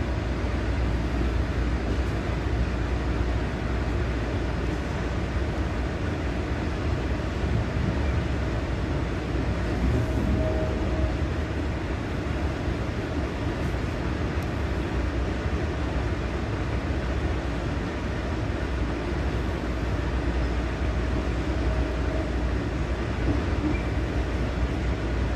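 Steady rumble of a moving NJ Transit commuter train, heard from inside a passenger car as the wheels run along the rails.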